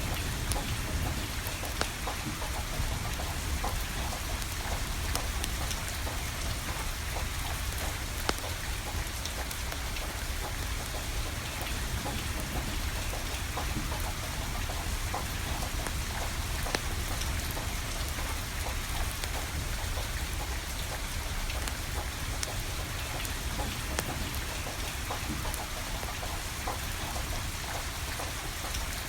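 Steady rain falling, with scattered sharp pops and crackles from a burning wood fire. A low, steady rumble runs underneath.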